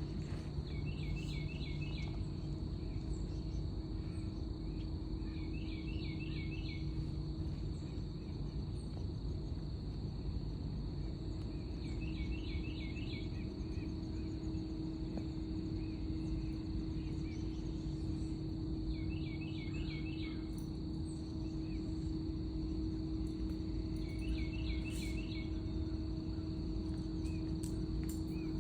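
Crickets trilling steadily on one high pitch, with a short burst of quick chirping notes about every six seconds and a low steady hum underneath.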